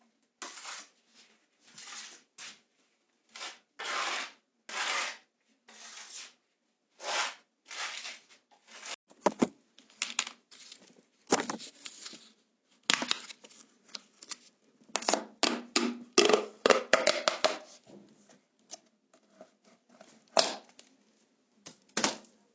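A run of short scraping and tearing sounds from hand work on a wall, with a busy stretch of quick clicks and knocks around the middle.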